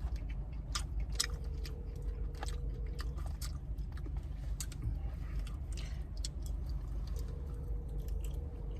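A person chewing and biting into chicken wings close to the microphone: irregular wet smacks and crunches, over a steady low hum.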